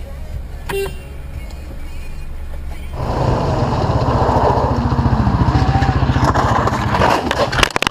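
Vehicle engine and road noise picked up by a dashcam: a low steady hum that turns much louder and rougher about three seconds in, with a fast pulsing engine beat, and a few sharp clicks near the end.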